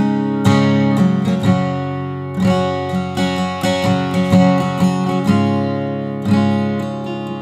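Fender Redondo Player acoustic guitar being strummed, chords ringing out between strokes, with several quick strums about a second apart.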